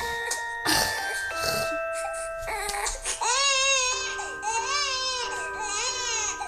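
Background music with held notes; about three seconds in, an infant starts crying, three wailing cries in a row with the music continuing underneath.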